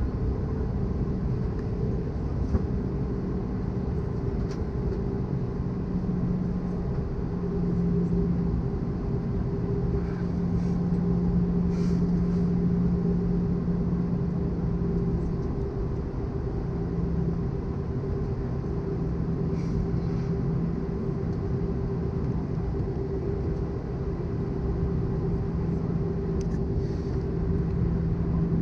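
Cabin noise inside an Airbus A320-214 on descent: a steady rush of air with the hum of its CFM56 engines. A low drone wavers slightly in strength over a higher steady tone.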